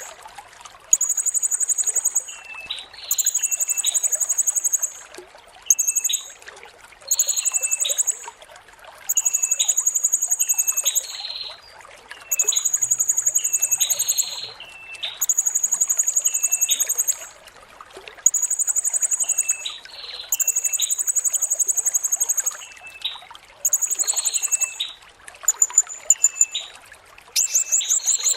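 Blue-crowned hanging parrot (serindit) calling: a run of very high, thin, buzzy trills, each a second or two long and repeated about every two seconds, with short lower chirps between them. Near the end the trill breaks into quick rapid pulses.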